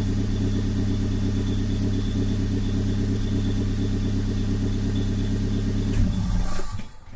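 Suzuki Wagon R+ M13A 1.3-litre four-cylinder running steadily through a straight-pipe exhaust with a single rear resonator and no catalytic converter. About six seconds in it swells briefly, then the engine stops and the sound dies away.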